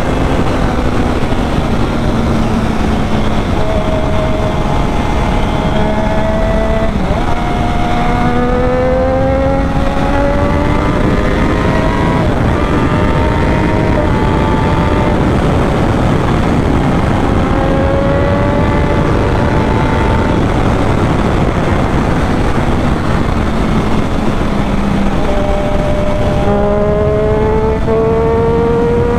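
Triumph Daytona 675R's three-cylinder engine with Arrow exhaust under hard acceleration, its pitch rising several times and dropping back at each gear change, over heavy wind rush on the microphone.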